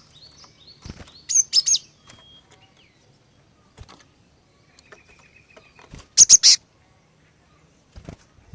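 Female cinereous tit (glatik batu) calling: two quick bursts of three or four sharp, high notes, about a second and a half in and again about six seconds in, with faint clicks between.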